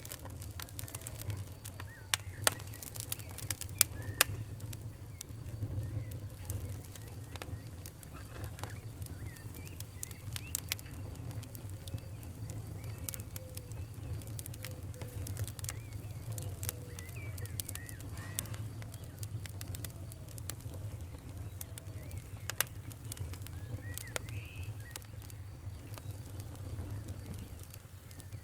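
Wood fire crackling in a fireplace: frequent sharp pops and snaps, the loudest in the first few seconds, over a steady low rumble.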